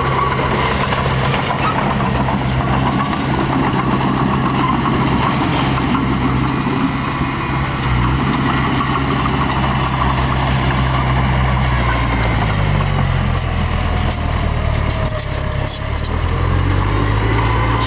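Heavy diesel engine of a small crawler bulldozer running steadily under load. Its engine speed dips and then comes back up about two-thirds of the way through.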